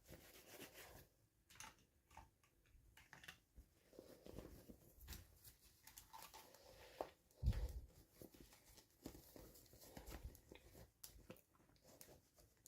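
Faint handling noises from an unboxing of small toys: scattered light clicks and short rustles of plastic packaging, with one louder thump about seven and a half seconds in.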